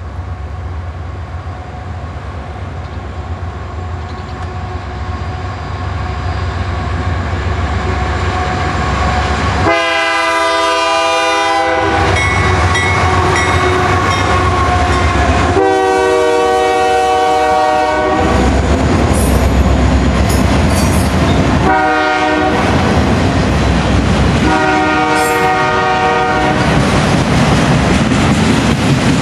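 Diesel freight train approaching and passing, its engine rumble building steadily. The lead locomotive's air horn, sounding several tones at once, blows long, long, short, long: the standard grade-crossing signal. After it, autorack cars roll past with a clickety-clack of wheels over the rail joints.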